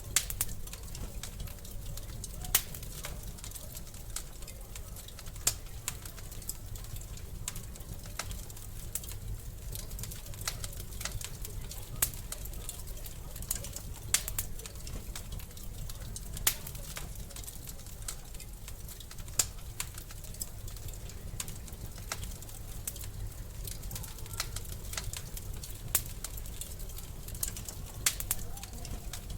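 Wood fire crackling in a fireplace: frequent small crackles and a sharp louder pop every few seconds over a steady low rumble of the flames.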